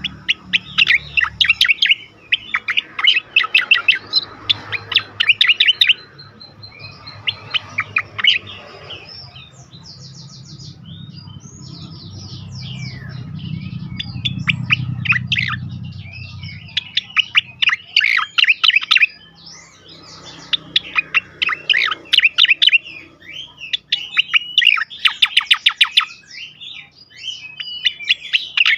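Cucak koreng singing its 'tembakan' song: repeated bursts of rapid, sharp, rattling notes, each burst lasting one to two seconds, with quieter varied chirps between them. A low rumble swells and fades about halfway through.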